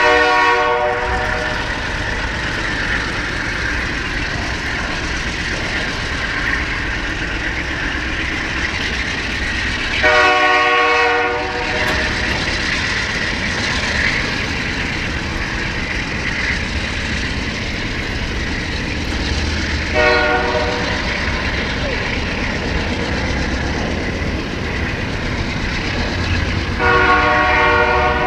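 Double-stack intermodal container train rolling past, with a steady rumble and rattle of wheels and well cars. A train horn sounds four times, each briefly, roughly every ten seconds.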